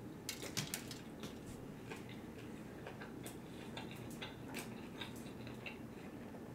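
Close-miked chewing of a mouthful of chicken sandwich: faint, irregular wet mouth clicks and smacks, thickest in the first second or so.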